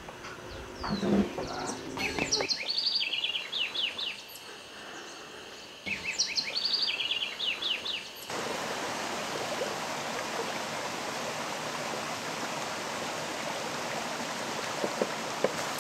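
A bird singing two short phrases of quick, stepped high notes, then an abrupt change to the steady rush of flowing water.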